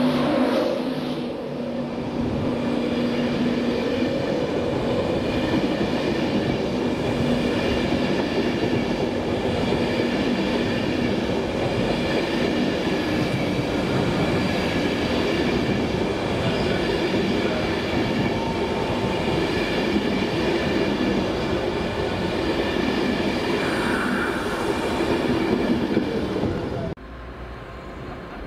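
A train moving through the station close by: a steady rumble of wheels on track with several steady high tones over it, cutting off suddenly near the end.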